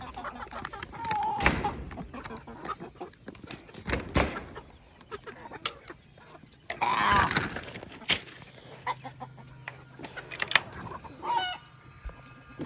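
Chickens clucking and calling, with one louder call about seven seconds in and a few sharp knocks scattered through.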